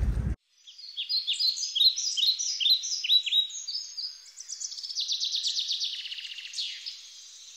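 Wind-buffeted rumble that cuts off abruptly just after the start, followed by birds chirping: a run of short, sharp, falling calls, then a fast rattling trill in the middle, growing quieter near the end.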